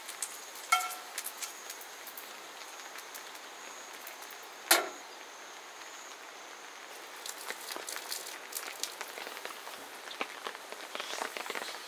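Steady rain pattering, with scattered drips ticking. There is a short ringing clink about a second in and one sharp knock near the middle.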